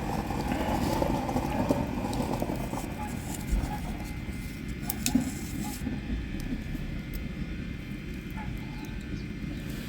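Wood campfire burning, with scattered crackles and snaps over a low steady outdoor rumble.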